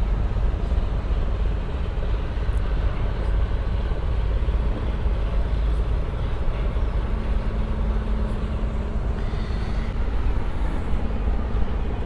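Outdoor street ambience: a steady low rumble with traffic noise. A steady low hum comes in about seven seconds in and fades about three seconds later.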